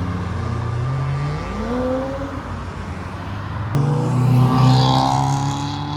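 Cars driving out past on the road, engines running: one engine revs up about a second and a half in, then a louder car comes past and accelerates just after four seconds in.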